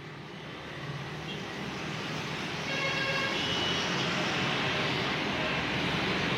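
Street traffic noise: a steady roar of road vehicles that fades in and builds over the first few seconds. A short pitched tone stands out about three seconds in.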